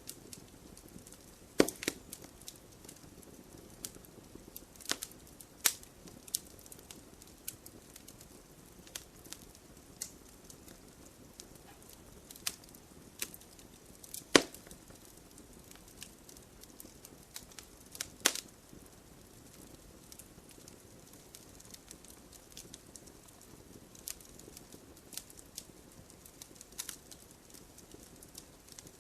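Wood fire crackling: irregular sharp pops and snaps over a low steady hiss of burning, with a few louder cracks, one about a second and a half in and a sharper one about fourteen seconds in.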